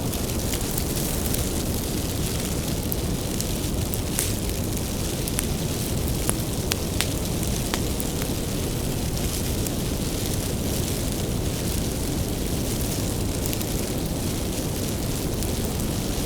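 Bonfire of firewood burning: a steady low rush of flame with scattered sharp crackles and pops from the wood, a few of them louder.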